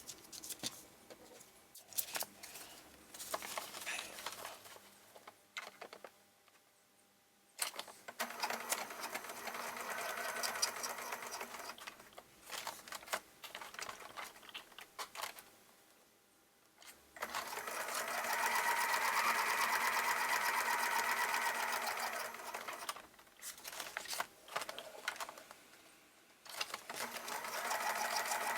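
Sewing machine stitching through paper in three runs of several seconds, stopping in between, with small clicks and paper handling during the pauses.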